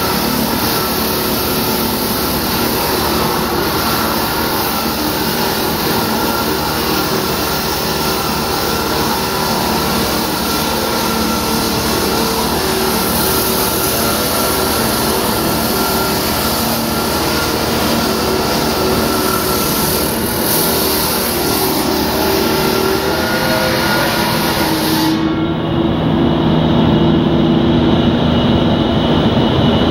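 A loud machine running steadily, with several held tones over a noisy hiss. About 25 seconds in the hiss drops away abruptly and the lower tones get louder.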